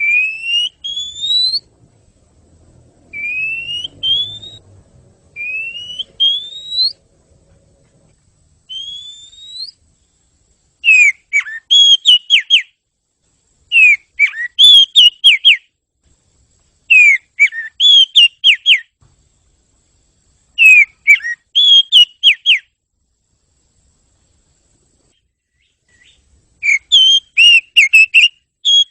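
Oriental magpie-robin (kacer) song: four rising whistles, then repeated bursts of quick, sharp whistled notes, each burst about two seconds long, with short pauses between them.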